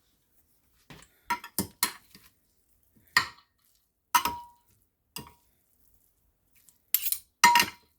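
A utensil clinking against a dish while mixing microwaved broccoli: about nine sharp, irregular clinks, a few of them ringing briefly.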